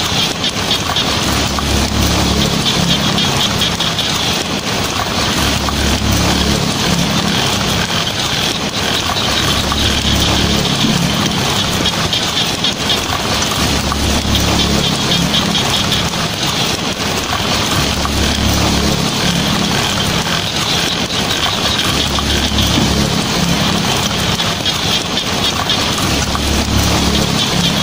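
Heavy rain drumming steadily on a tin roof, with a low rumble that swells and fades every few seconds.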